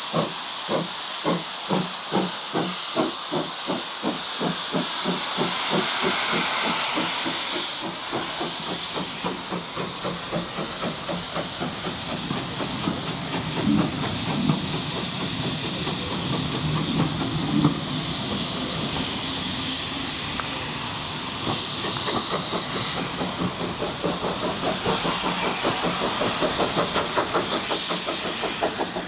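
Steam locomotive working, its exhaust beats chuffing at about four a second over a loud hiss of steam.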